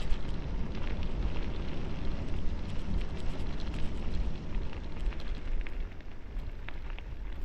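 Bicycle tyres rolling fast over a dirt and gravel road, with a steady low wind rumble on the microphone and many small scattered crackles from stones and grit.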